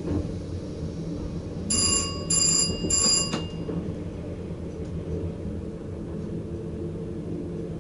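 Steady running rumble of a VIRM double-deck electric train heard in the driver's cab, with three short ringing electronic tones, each about half a second long, starting a little under two seconds in.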